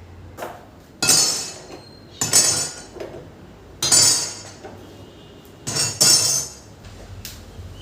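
Kitchenware clinking and knocking: about five sharp, loud strikes spread over several seconds, each ringing briefly.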